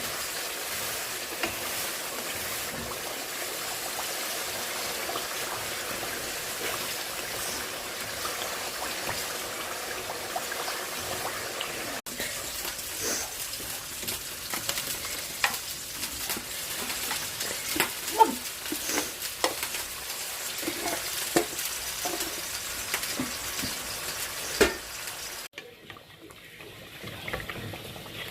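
Chicken curry frying in a pan, with a steady sizzle. About twelve seconds in, a utensil starts clinking and scraping against the pan as the curry is stirred over the sizzle. Near the end the sound drops to a quieter, duller sizzle.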